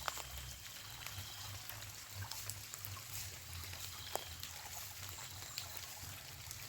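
Water trickling and running steadily, with scattered faint ticks and a low rumble underneath.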